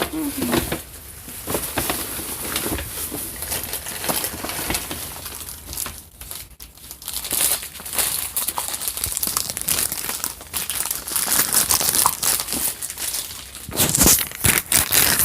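Crinkling, rustling handling noise with scattered clicks and knocks from a phone being carried and handled, its microphone rubbing against hands or fabric; it gets louder near the end.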